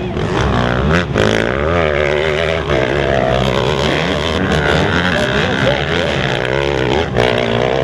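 Several motocross bikes' engines running and revving, their pitch rising and falling over and over as they overlap.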